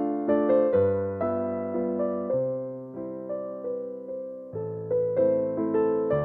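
Piano music: single melody notes struck about twice a second, each fading away, over held low bass notes.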